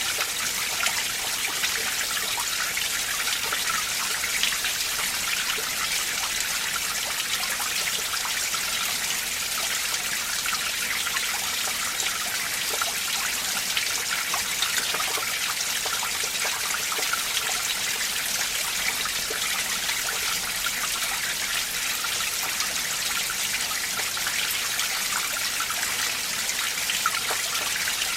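A mountain stream running over rocks among ice, a steady rush of water with small splashes and trickles throughout.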